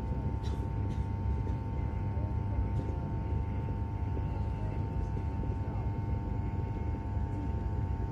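Intercity high-speed EMU train heard from inside the passenger car while running at speed: a steady low rumble with a constant hum over it.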